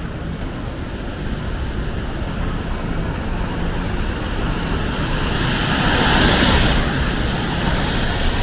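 Street noise in the rain: a vehicle passing on a wet road, its tyre hiss swelling about six seconds in and fading away, over a steady low rumble.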